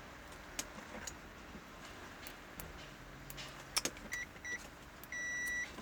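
Multimeter continuity buzzer beeping: two short beeps, then one longer beep of about half a second near the end. A few light clicks come before them.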